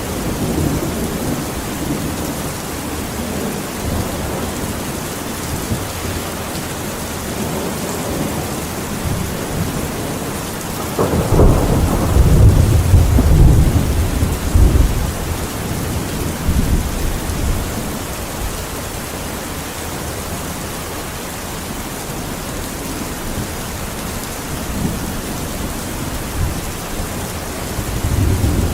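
Steady rain with thunder: a long, low rumble of thunder swells up about eleven seconds in and rolls on for several seconds, and another starts near the end.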